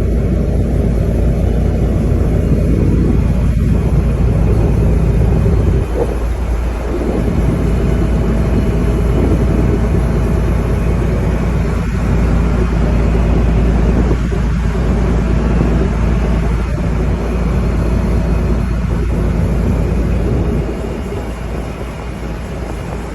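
Fishing boat's diesel engine running steadily with a low rumble, dropping in level near the end.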